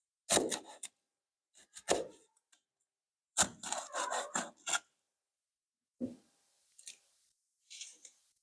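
Short bursts of rubbing and scraping from food preparation, broken by abrupt silent gaps between edited clips.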